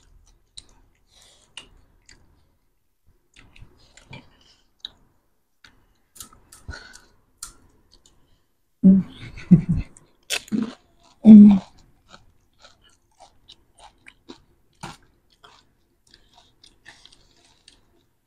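A person chewing and crunching crisp street snacks close to the microphone, with many small mouth clicks and a few louder crunchy bursts about halfway through.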